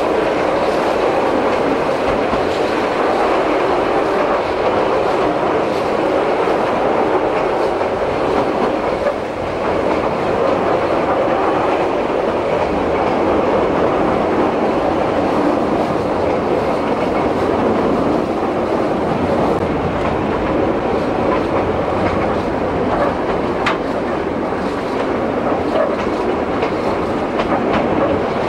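Narrow-gauge train heard from on board a carriage, a steady rumble and rattle of wheels running on rail that continues unbroken, with a brief drop in level about nine seconds in.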